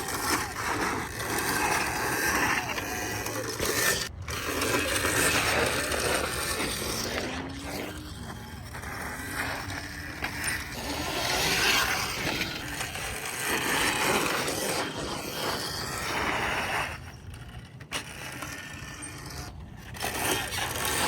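Electric dirt bike being ridden over rough dirt: tyres scraping and crunching over the ground while the bike rattles, in swells and dips rather than a steady note.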